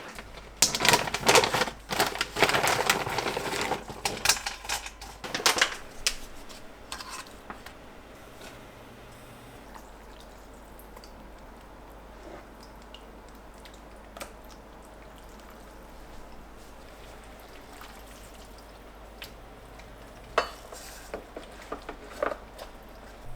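Kitchenware clinking and clattering for about six seconds, then a quiet stretch with a low steady hum and a few faint clicks near the end.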